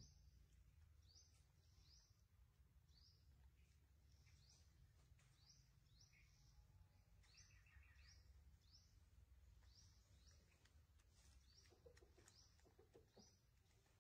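Very faint bird chirping over a low hum: short high notes, each falling in pitch, repeated about once or twice a second.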